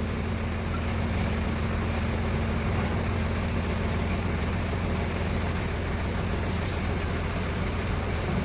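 A steady low mechanical hum, like an engine or motor running at an even speed, with no change in pitch or loudness.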